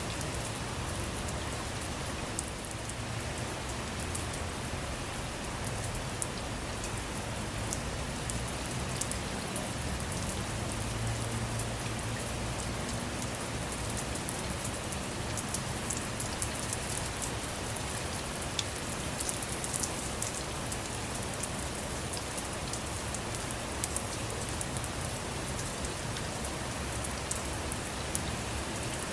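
Steady rain falling on a vehicle, with many small drops ticking sharply throughout.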